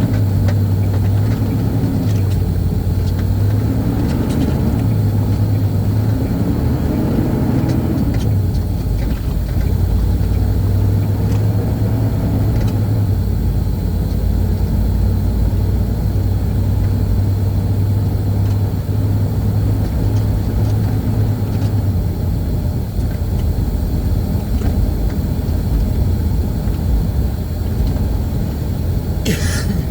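Semi truck engine running while driving, its pitch rising and falling a few times in the first eight seconds as it pulls through the gears, then holding steady. A brief hiss near the end.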